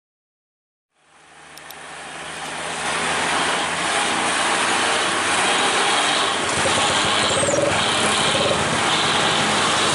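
Heavy truck engine running steadily with road noise, fading in from silence about a second in.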